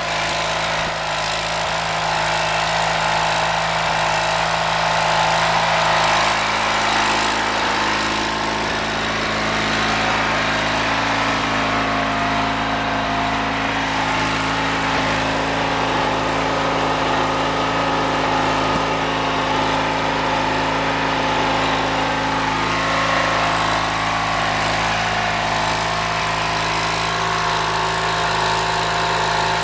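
Sears Craftsman YTV-16 yard tractor's Briggs & Stratton 12.5 hp twin-cylinder engine running steadily.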